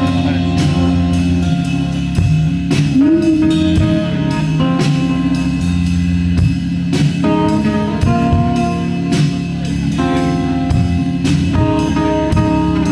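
A rock band playing live: an instrumental stretch of guitar over a steady drum beat, with no singing.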